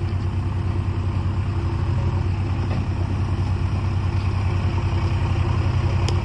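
Diesel engine of a backhoe loader or tractor running steadily, with a fast, even throb.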